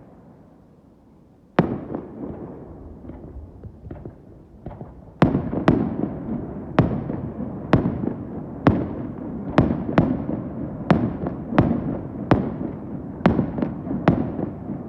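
Aerial firework shells bursting: a single sharp bang about a second and a half in, a few faint crackles, then from about five seconds a rapid barrage of bangs, one to two a second, with rumbling echoes between them.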